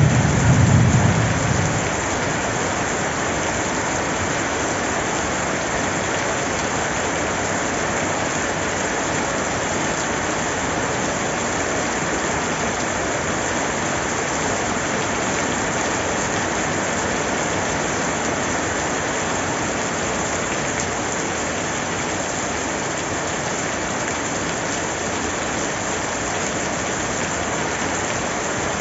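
Steady, dense rainfall hiss, even throughout. A low thunder rumble fades out over the first two seconds.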